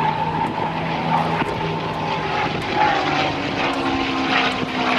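P-51 Mustang's V12 piston engine and propeller droning steadily as the fighter flies overhead.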